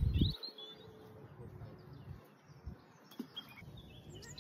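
Small birds chirping in short calls over a steady outdoor hiss, with a short low thump right at the start.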